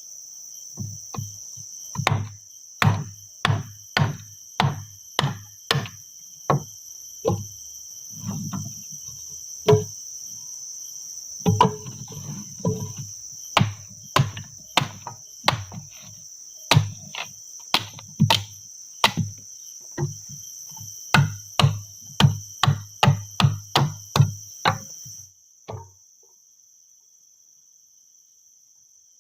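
Repeated dull blows, roughly one to two a second with a short break in the middle, stopping a few seconds before the end. Under them runs a steady high-pitched drone of forest insects.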